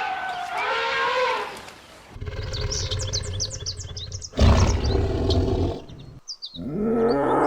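A string of recorded animal calls: a short call that bends in pitch, then high bird chirps over a low rumble, and a loud roar about halfway through. Near the end a squealing call falls in pitch.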